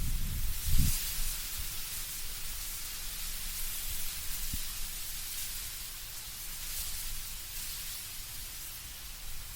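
Wind through autumn tree foliage, leaves rustling in a steady soft hiss, with a brief low gust rumble about a second in.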